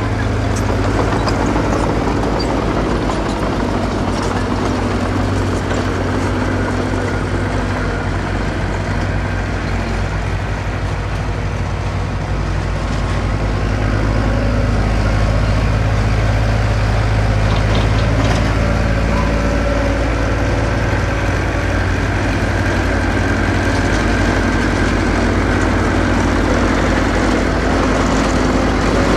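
Diesel engine of earthmoving machinery running steadily with a low, even hum, getting a little louder about halfway through.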